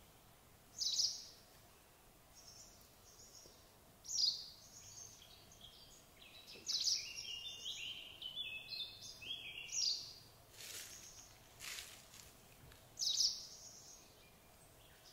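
Songbirds singing: short, bright, high-pitched phrases every few seconds over faint outdoor background noise, with a longer run of quick notes in the middle.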